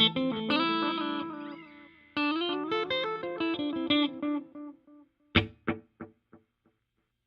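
Electric guitar played through the Donner Yellow Fall II digital delay pedal, delay only with no reverb. First a short run of ringing notes, then, about five seconds in, a single picked note echoes as a train of repeats about three a second, each fainter than the last until they die away.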